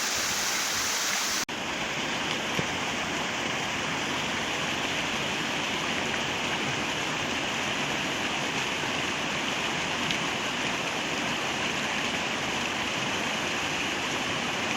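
Waterfall more than 100 feet high, a steady, dense rush of falling water, with a short break in the sound about a second and a half in.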